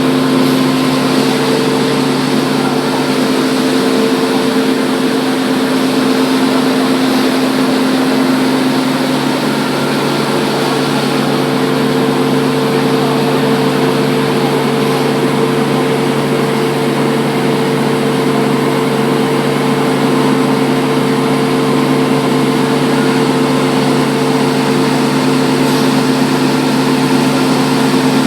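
Wide belt sander running steadily: a constant hum over an even, loud rushing noise, with no change in pitch or level.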